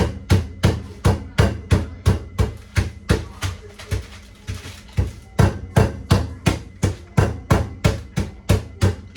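Fresh ginger being pounded in a Ziploc bag: repeated heavy thumps, about three a second, that turn lighter for a moment around the middle before picking up again.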